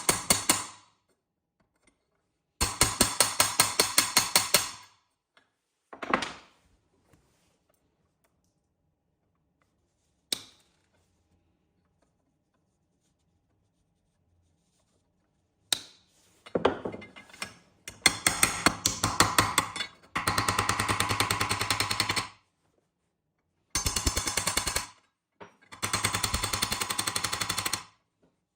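A hammering power tool working on rusty metal, a rapid run of sharp impacts at about ten a second. It comes in several bursts of one to a few seconds with silence between them, plus two single short knocks.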